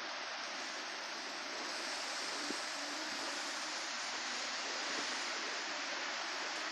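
Strong wind rushing steadily ahead of an approaching rainstorm, a constant hiss-like roar that grows slightly louder about two seconds in.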